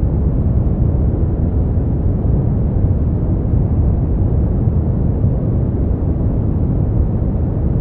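Brown noise: a steady, deep rushing hiss, strongest in the bass and fading toward the treble, with no changes.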